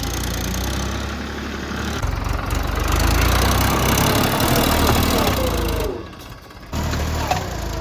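Tractor diesel engine running hard under load, growing louder and rougher from about two seconds in. It cuts off abruptly near six seconds and comes back briefly just before the end.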